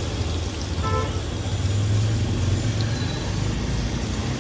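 Steady low rumble of street background noise, with a brief pitched tone about a second in.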